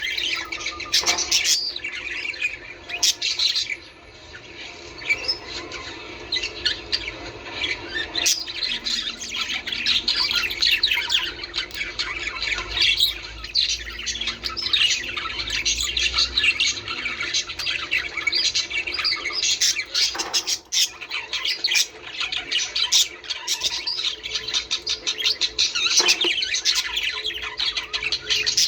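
A flock of budgerigars chattering without a break: dense overlapping chirps, warbles and squawks.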